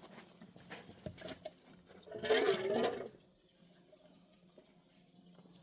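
A high insect chirp pulsing steadily about six times a second, with a short, loud, rushing burst a little over two seconds in.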